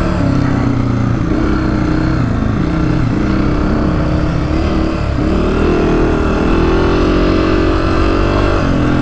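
Honda CRF250F dirt bike's single-cylinder four-stroke engine running under way on a trail, its note wavering with the throttle, climbing about five seconds in, holding, and easing off near the end.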